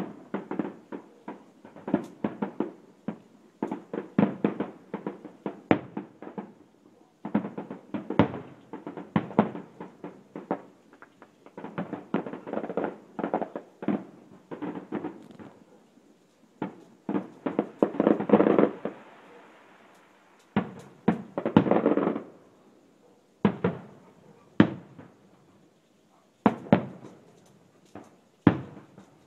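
Fireworks and firecrackers going off: rapid runs of sharp pops and cracks in bursts, with the heaviest stretch of near-continuous crackling about two-thirds through, then scattered single bangs near the end.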